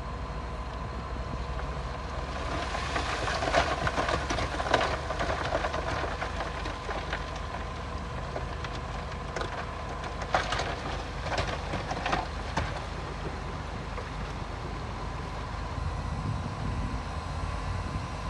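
Crawler bulldozer's diesel engine running steadily, with bursts of metallic clanking from the tracks and blade twice, a few seconds in and again about ten seconds in.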